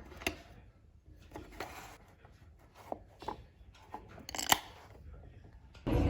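Faint handling noises: scattered small clicks, taps and short rustles, with one sharper click about four and a half seconds in. Near the end a much louder, steady rumbling noise cuts in abruptly.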